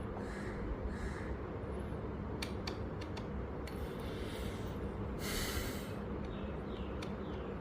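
A person breathing close to the microphone, a few short exhales with the loudest a little past the middle, over a steady low hum and small handling clicks.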